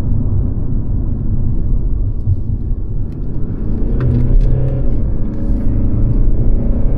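Mercedes-Benz C-Class (W206) on the move, a steady low rumble of engine and road noise; about four seconds in, the engine note starts to rise slowly as the car accelerates.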